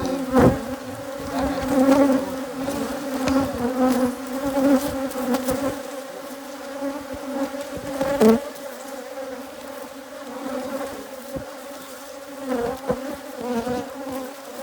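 Dense buzzing of many hybrid Africanized honeybees flying around an open hive, a steady hum that is loudest in the first half. Two short thuds cut through it, about half a second in and about eight seconds in.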